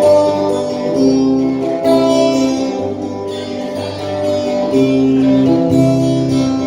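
Instrumental passage of a folk-country song with no singing: acoustic guitar playing chords, the notes changing about once a second.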